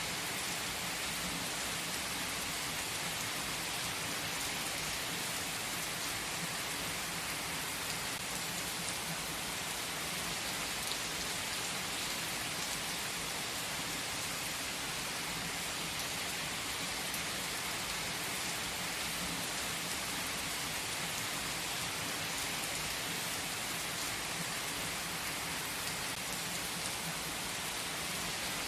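Steady rain: an even hiss that keeps up without a break, with no thunder or other events.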